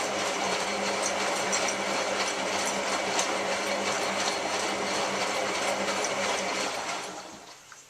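Hotpoint 9534A washing machine running with a steady hum, late in its Cotton 85 descaling wash; the noise dies away about seven seconds in.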